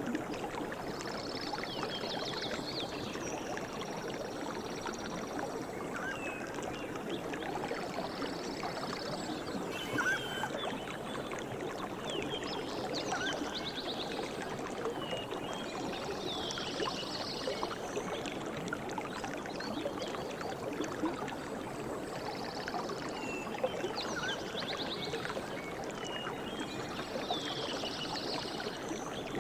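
Steadily running water, like a stream, with birds chirping and giving short trills over it throughout.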